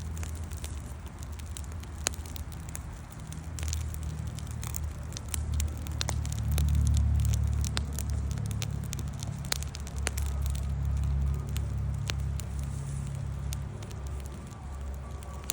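Wood campfire crackling, with sharp pops scattered irregularly throughout, over a low rumble that swells in the middle and is loudest about halfway through.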